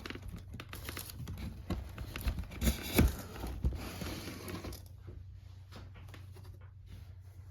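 Cardboard and plastic packaging being handled while unboxing: rustling, crinkling and scraping, loudest about three seconds in. From about five seconds in it drops to fainter, scattered taps and rustles.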